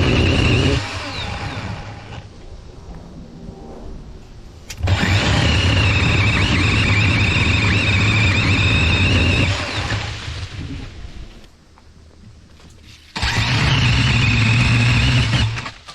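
DeWalt 20V brushless battery pole saw running in three bursts of a steady whine: one ending about a second in, a longer one of about four and a half seconds from five seconds in, and one of about two and a half seconds near the end.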